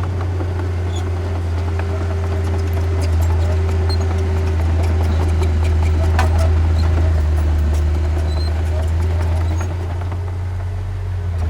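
Heavy diesel engine of earthmoving equipment running steadily under load, with scattered light clicks and clanks over the drone. It grows a little louder around the middle and eases slightly near the end.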